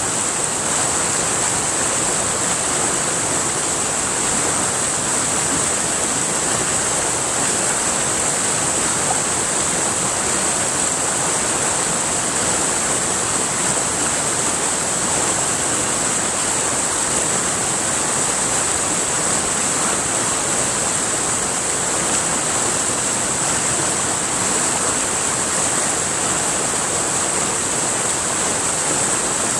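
River water rushing and splashing over rocks, a steady, unbroken rush, with a constant high-pitched hiss above it.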